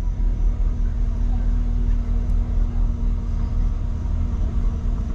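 Tow truck engine running with a steady low rumble and a constant hum.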